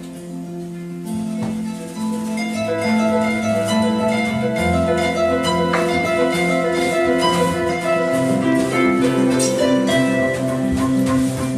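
Electric harp played solo: plucked notes ringing over a moving bass line, softer at first and filling out about two seconds in.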